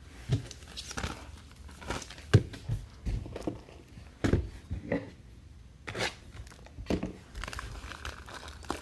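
Trading-card packs being opened and handled: wrappers crinkling and tearing, with irregular taps and clicks as cards are shuffled and set down.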